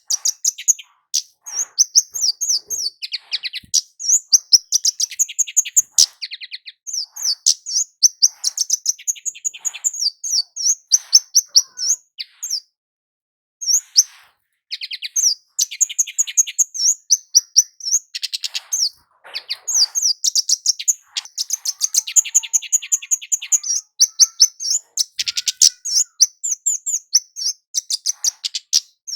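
Kemade jawa, a small flowerpecker, singing in rapid, high, thin chirps and trills that run in quick succession, broken by a pause of about two seconds near the middle.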